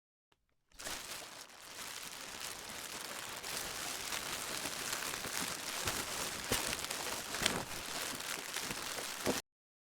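Plastic being crinkled and crumpled, a dense crackle of many small clicks, played back pitched down one octave. It starts suddenly just under a second in and cuts off abruptly near the end.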